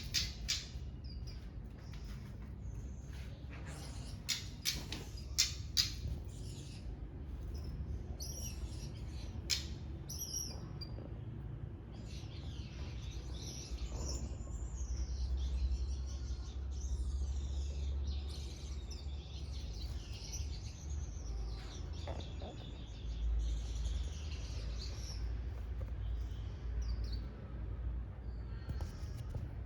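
Small caged songbirds in a mixed finch aviary chirping and calling, with short sharp tweets in the first few seconds. A continuous high, gliding warbling song then runs from about twelve seconds in, over a steady low rumble.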